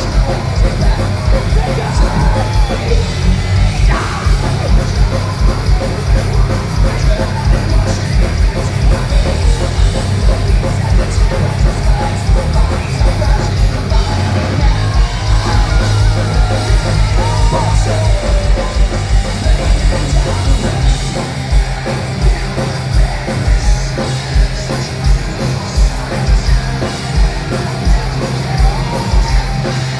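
Heavy metal band playing live: distorted guitars and drums with rapid kick-drum beats, and yelled vocals over the top.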